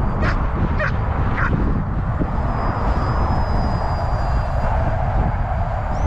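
Wind buffeting the microphone, with the thin high whine of a small radio-controlled plane's brushless electric motor in flight, its pitch stepping up near the end as the throttle changes. Three short cries come about half a second apart in the first second and a half.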